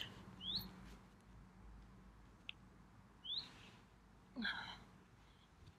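Faint bird chirps: two quick rising high notes and a short call, over a quiet background.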